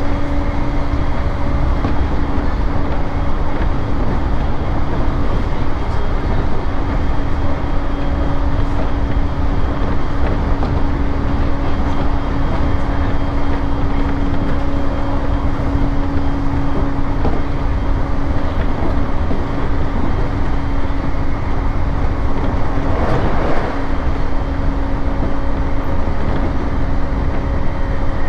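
Running noise inside a Joban Line electric commuter train travelling at speed: a steady rumble of wheels on rail with a steady low hum running through it. About 23 seconds in there is a brief louder rush.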